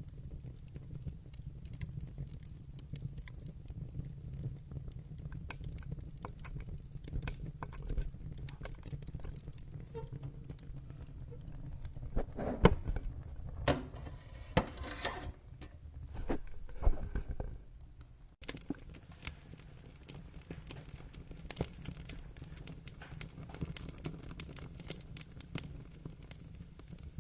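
Wood fire crackling: a steady low rumble with many small irregular snaps and ticks, and a cluster of louder pops about halfway through.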